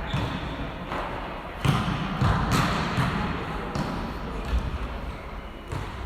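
A volleyball being hit and bouncing on a gym floor: a few separate thuds over a steady background murmur.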